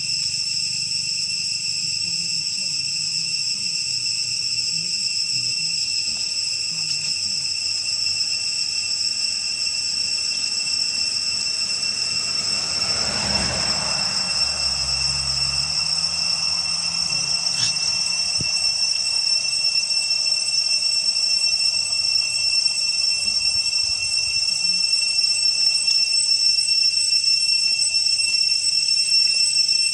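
Steady high-pitched insect drone, with a brief rustling noise about thirteen seconds in.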